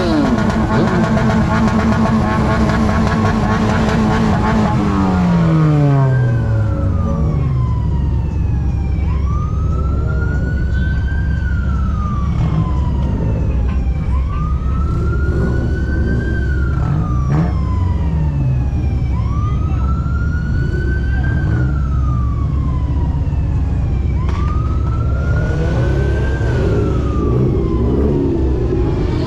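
A vehicle engine held at high revs, then dropping back about five seconds in. A siren then wails over a low engine rumble, its pitch rising quickly and falling slowly, repeating about every five seconds.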